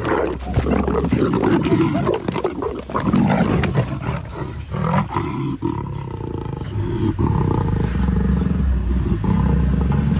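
A large animal roaring.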